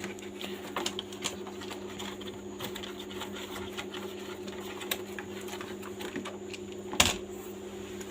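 Light, irregular plastic clicks and taps of a toy car being handled, over a steady low hum, with one sharper click about seven seconds in.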